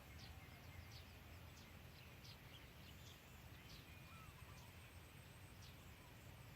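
Faint, short bird chirps scattered roughly once a second over a low steady background rumble.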